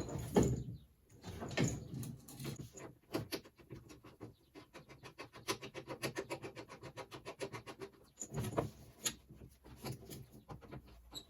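Rapid run of small clicks, about five a second, from hand work fitting AN hose ends onto braided fuel and coolant lines, followed by a brief scraping rustle near the end.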